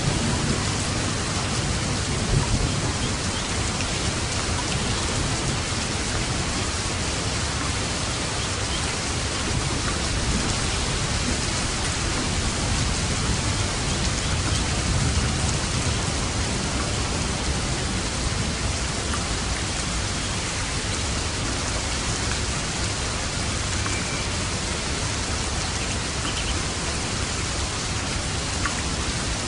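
Steady, even rainfall, with a low rumble of thunder in the first few seconds that fades away.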